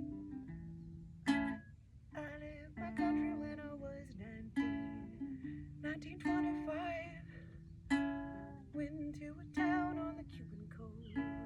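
Live acoustic music without words: a small plucked string instrument strumming chords that ring out, about one strike every second and a half.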